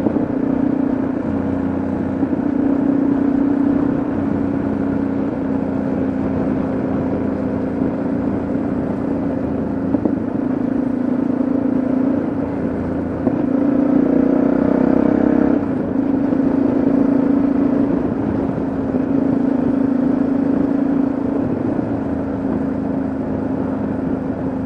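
Yamaha XT660Z Ténéré's single-cylinder engine running steadily at road speed, with road and wind noise. The engine note rises a little about halfway through, then drops back suddenly a couple of seconds later.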